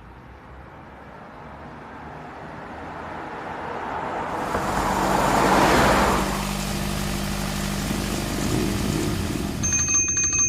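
A motor vehicle's engine drawing near and growing louder to a peak about six seconds in, then running steadily at idle. A short high-pitched ringing tone sounds near the end.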